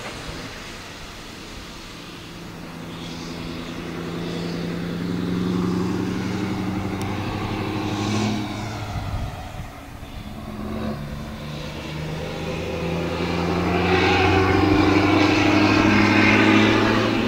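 Scania V8 truck engines driving past, the deep engine note swelling twice and loudest near the end.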